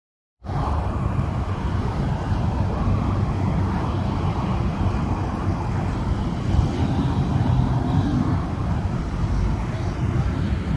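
Steady outdoor background noise, a low rumble under an even hiss, like road traffic, starting suddenly about half a second in.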